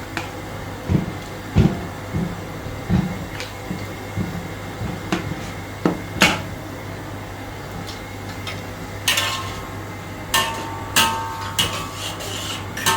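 Metal spatula knocking and scraping against a wok during stir-frying, with dull knocks in the first few seconds and a run of sharp, ringing metallic clinks in the last few seconds. A steady low hum runs underneath.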